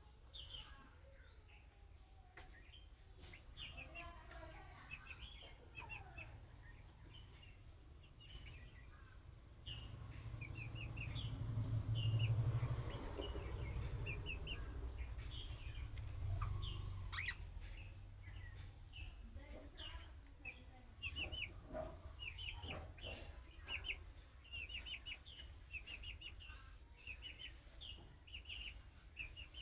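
Budgerigars chirping and warbling in quick runs of short, high chirps. A low rumble swells in the middle and fades.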